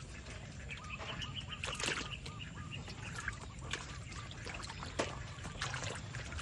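Frogs being fed: sharp snaps and small splashes as they strike at the food, over a run of short, quickly repeated animal calls.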